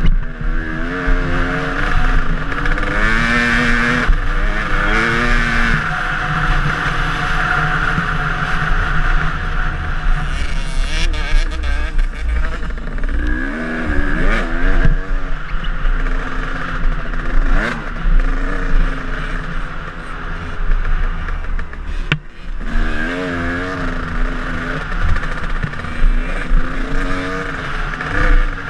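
KTM enduro dirt bike engine heard from an onboard camera, repeatedly revving up and falling back as the rider works the throttle through the gears, with a brief lift off about two-thirds of the way in. Scattered knocks and clatter from the bike come through over the engine.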